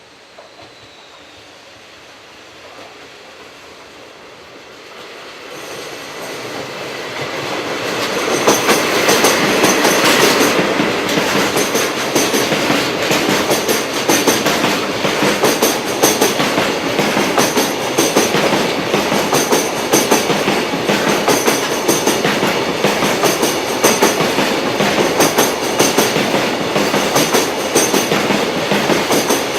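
Container freight train approaching and then passing close by: the sound builds up over the first several seconds, then turns into a steady, loud clickety-clack of wagon wheels over rail joints, about one beat a second.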